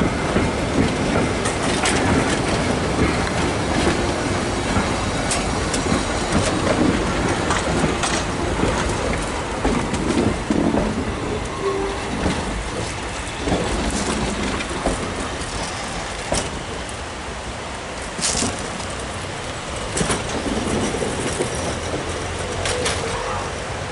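A Train Jaune metre-gauge railcar rolling slowly past, its wheels clicking over the rail joints with brief squeals. It eases off slightly as it moves away.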